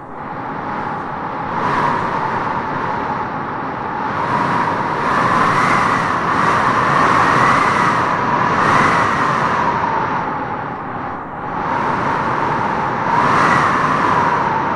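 Wind blowing with no break, swelling in gusts through the middle and again near the end, with a wavering whistle riding on the rush.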